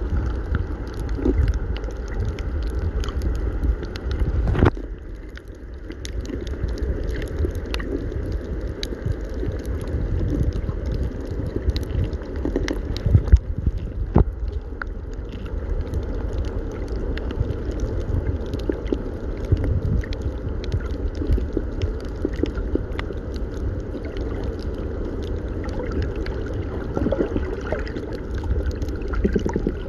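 Sea water gurgling and sloshing over a steady low rumble, with scattered sharp clicks and a brief dip in level about five seconds in.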